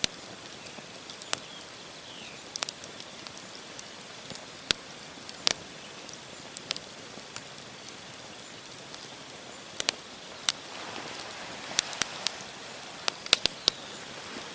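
Wood campfire crackling: sharp, irregular pops and snaps from burning logs over a steady hiss of flame, which grows a little fuller about ten seconds in.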